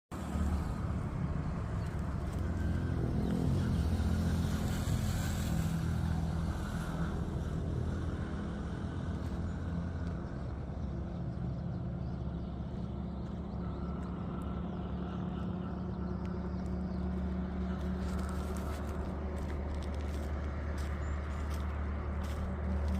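Highway traffic: a steady low engine rumble, with a vehicle passing loudly about four to six seconds in. Short bird chirps come through over the traffic later on.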